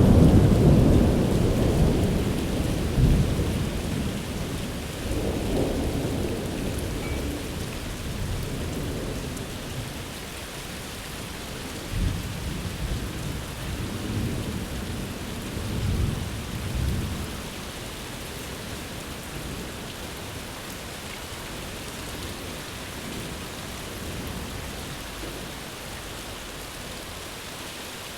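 Steady rain with rolling thunder: a rumble dies away over the first several seconds, and two more low rolls come about twelve and sixteen seconds in, then only the even rain continues.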